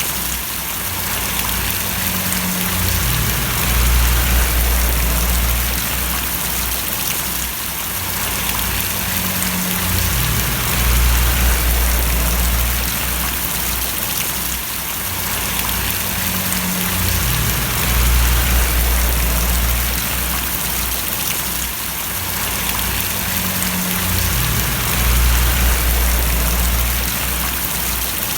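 Steady rain falling and splashing, an even hiss, with a deep low rumble that swells and fades about every seven seconds.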